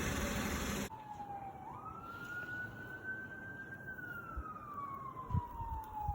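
A steady rushing noise cuts off abruptly about a second in, then a distant siren wails: a single tone that jumps up, climbs slowly and then falls away gradually.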